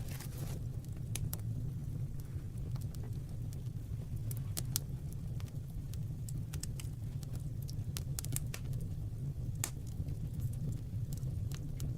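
Fire burning: a steady low rumble with irregular sharp crackles and pops scattered through.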